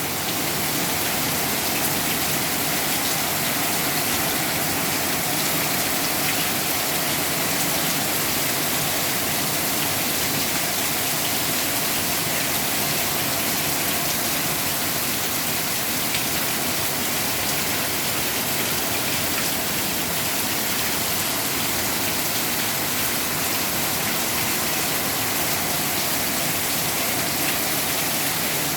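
Torrential rain pouring down onto a patio: a steady, even downpour with water gushing.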